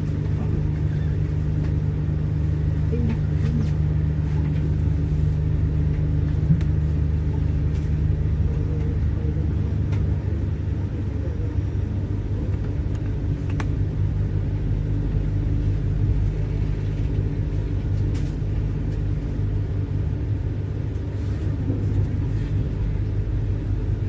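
Steady low hum and rumble inside an intercity passenger train carriage, several low tones held evenly throughout.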